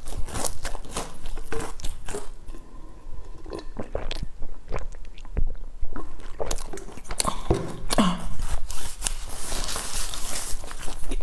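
Close-miked chewing and crunching of a crisp, crusty pastry, a run of sharp crackling bites and mouth sounds. A few swallows come in the middle as she drinks from a bottle, and there is a denser crackling stretch near the end.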